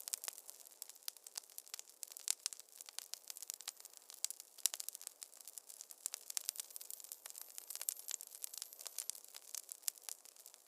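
Wood fire crackling in a fireplace: a dense, irregular run of sharp pops and snaps with no low rumble.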